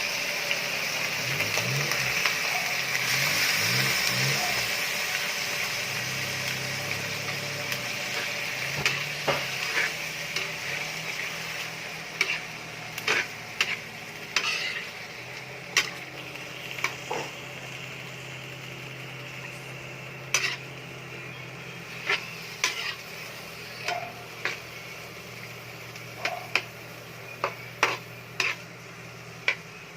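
Food sizzling in a hot pan, loudest at first and slowly dying down, with a utensil stirring and clacking against the pan in sharp separate knocks through the second half.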